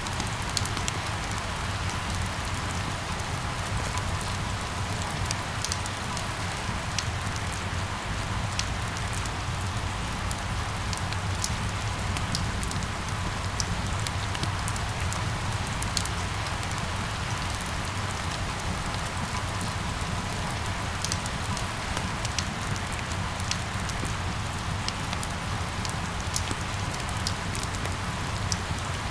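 Steady rain falling, with many small drop ticks scattered through it and a low, even rumble underneath.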